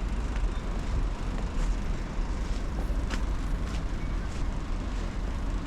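Blizzard wind buffeting the microphone in a steady low rumble, with a few faint irregular taps.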